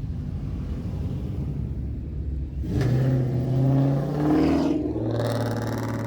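Car engine rumbling low, then accelerating hard about three seconds in, its pitch climbing, dipping briefly near the fifth second and climbing again.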